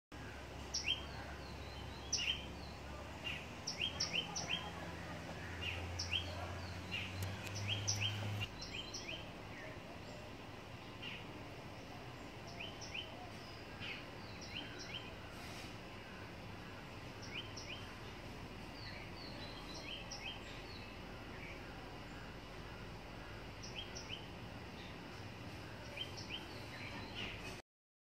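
Small birds chirping over a steady outdoor background hiss. The short, sharp chirps come thick and fast in the first eight seconds over a low hum, then more sparsely, and the sound cuts off just before the end.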